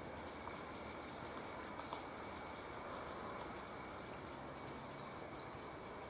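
Songbirds calling: a few short, high chirps scattered over a steady background hiss.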